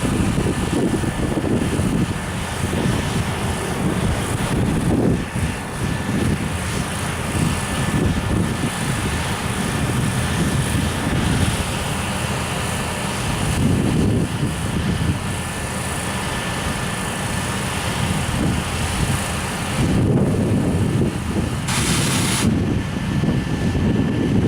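Container flatcars of a freight train rolling past at low speed: a steady rumble of steel wheels on the rails that swells every few seconds as wagons go by.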